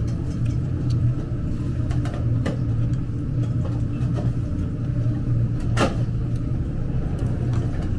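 Steady low rumble of a moving vehicle heard from inside the cabin, with a couple of short clicks.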